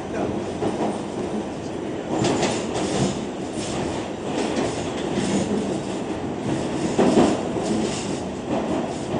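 R46 subway train running along the track, with a steady rumble and irregular clacks as its wheels cross rail joints.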